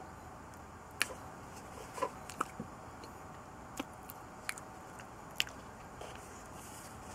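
A person chewing banana with peanut butter spread, with sharp mouth clicks and smacks at irregular intervals.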